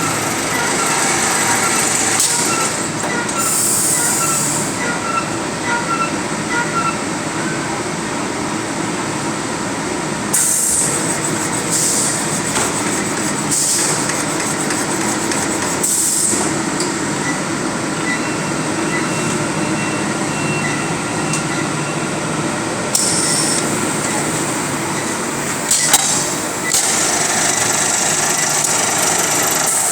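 Automatic 50 kg bagging machine running with a steady mechanical rumble and clatter. Short bursts of high hiss come every few seconds, and a run of quick repeated beeps sounds over the first several seconds.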